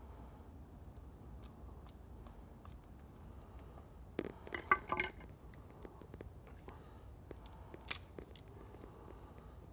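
Campfire crackling: scattered small snaps and pops, with a louder burst of crackling about four to five seconds in and a single sharp pop near eight seconds.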